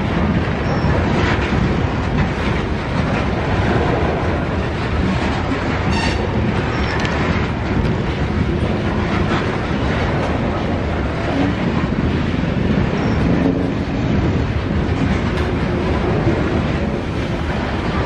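Freight train cars rolling past: a steady rumble of steel wheels on the rails, with irregular clacks as the wheels cross rail joints.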